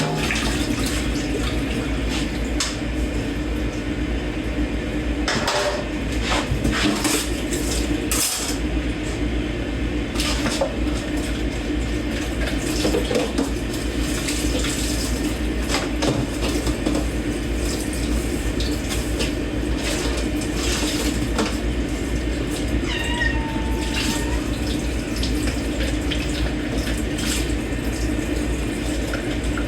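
Dishes and cutlery being washed by hand in a kitchen sink under a running tap: a steady rush of water with scattered clinks of plates and forks. Once, about three-quarters of the way through, a cat gives a slight meow in the background that falls in pitch.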